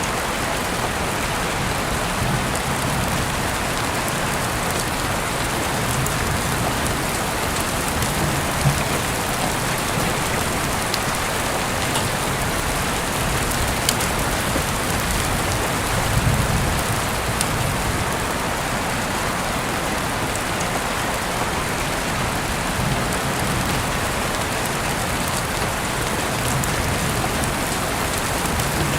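Heavy rain falling steadily, heard through an open window, with a few sharp drop hits standing out. There is a brief low rumble about halfway through.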